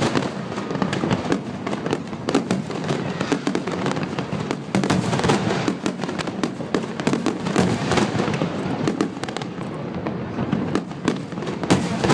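Fireworks display going off: a dense, unbroken run of crackles and sharp pops, many a second.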